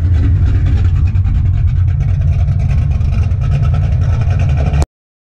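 A car's engine and exhaust running with a loud, steady, deep rumble that cuts off abruptly near the end.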